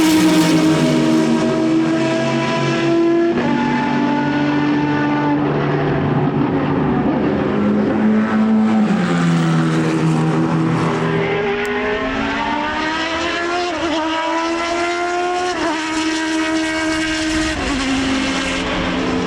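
Racing car engine running hard on track, its pitch stepping and gliding with several gear changes: a few steps down early on, then rising sharply with quick shifts that cut the pitch back in the second half.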